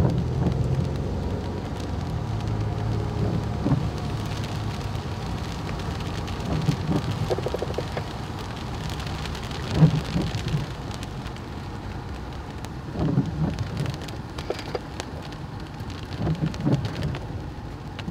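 Rain pattering on a car's windshield and roof, heard from inside the cabin, over a low hum, with a few louder knocks.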